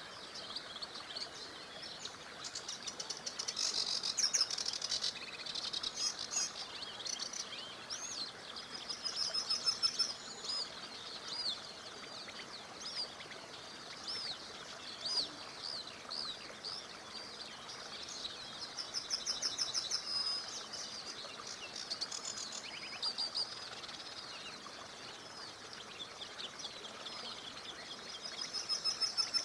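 Several songbirds singing and chirping. A rapid trilled phrase comes back about every ten seconds, and many short sliding chirps fall between the trills. Under the birdsong is a faint, steady hiss of flowing river water.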